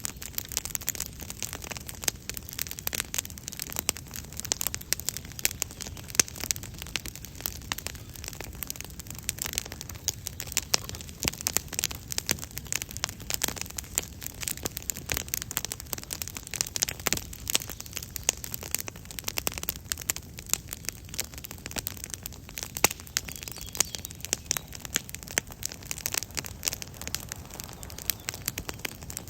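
Wood campfire crackling steadily, with frequent irregular sharp pops and snaps.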